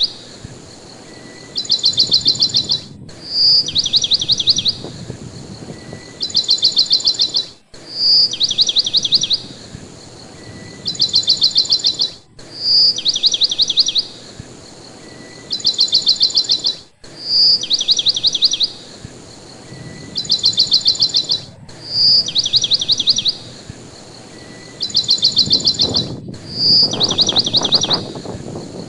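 Bird song repeating identically about every four and a half seconds, with short cuts between repeats like a looped recording: a single high note, then two quick trills of rapid chirps. Under it runs a low rushing noise that swells about four seconds before the end.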